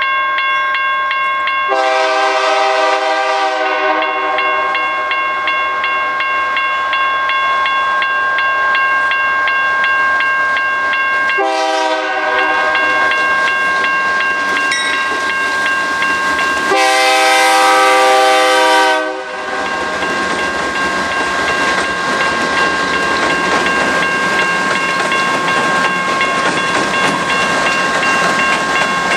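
Diesel freight locomotive's air horn sounding three chord blasts as the train approaches: one about two seconds in, a longer one near the middle, and the loudest a little past the two-thirds mark. Then the BNSF locomotives pass close, with a steady rush of engine and wheel noise.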